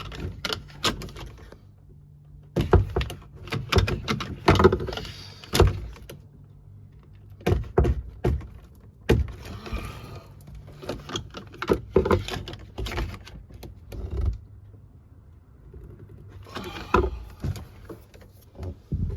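Handling noises as an RV water filter housing is fitted and tightened: irregular clusters of knocks, clunks and clicks, with short pauses between them.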